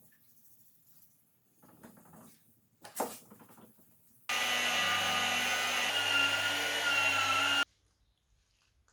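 Handheld power sander starts abruptly, runs steadily for about three seconds with a hum and a high whine, then cuts off, wet-sanding fine scratches out of a car's clear coat. Before it starts there is light handling and a sharp click.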